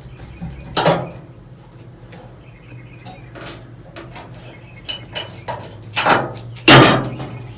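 Sheet-metal clanks and rattles as cut floor-pan steel and tools are handled, with four louder knocks, the loudest near the end, over a steady low hum.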